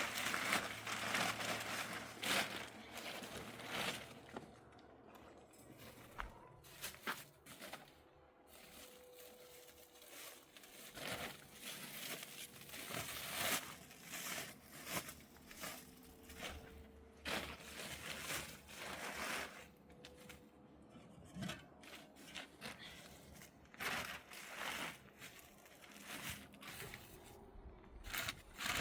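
Irregular rustling and crinkling with many scattered clicks and light knocks.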